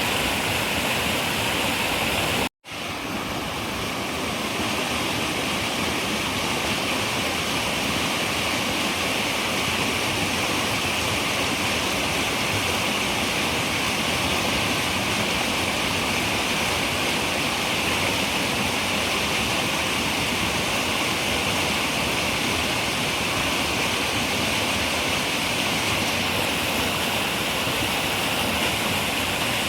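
Steady rush of a running river. The sound cuts out for an instant about two and a half seconds in, then fades back up over about a second.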